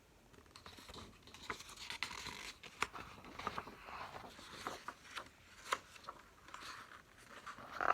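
Rustling and scratching of a paper picture book being handled and its pages turned, with many small sharp clicks and taps scattered through it.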